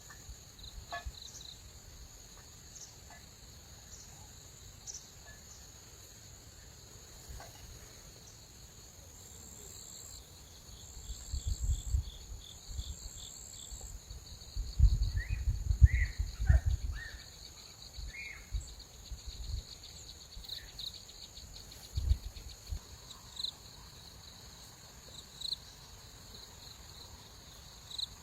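Insects chirping steadily in a high, even trill with quick repeating pulses. Low rumbles hit the microphone around the middle, the loudest about halfway through, with a few short chirps over them.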